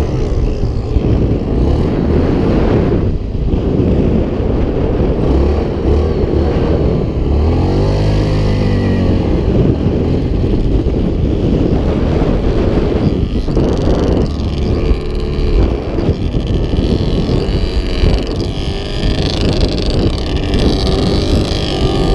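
Off-road vehicle engines running on a beach, dirt bike or quad, with loud steady noise throughout. About eight seconds in, one engine note rises and then falls in pitch.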